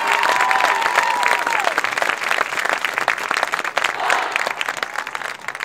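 Crowd applauding and cheering, with long high-pitched shouts in the first couple of seconds; the clapping dies away near the end.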